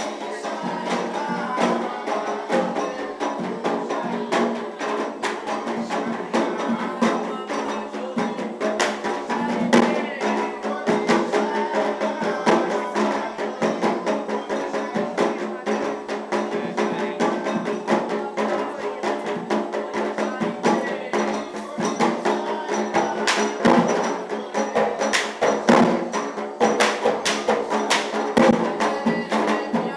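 Afro-Brazilian ceremonial music for Xangô: drums and sharp struck percussion playing continuously under a dense, sustained band of pitched sound, likely group singing.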